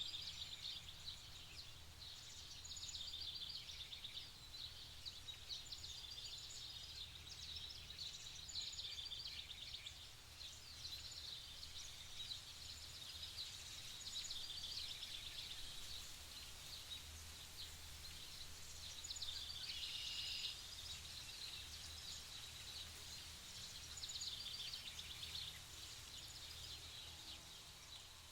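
Several small birds chirping and trilling continuously over a faint low hum, with one louder phrase about twenty seconds in.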